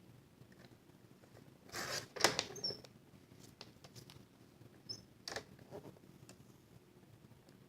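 Paper being handled and slid on a paper trimmer, with light scratching and small ticks, a louder rustle ending in a sharp click about two seconds in, and another click a little past the middle.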